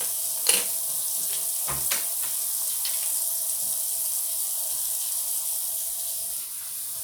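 Steady high hiss with a few sharp clicks of plastic Lego bricks being handled and pressed together, the loudest about half a second in and two more near two and three seconds in.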